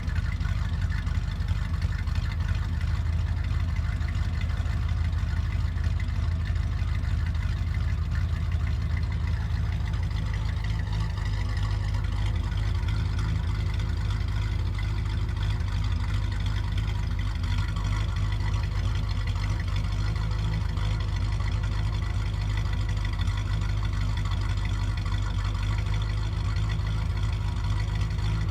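Exhaust of a 1965 Chevrolet Impala's 283 small-block V8 running steadily at idle.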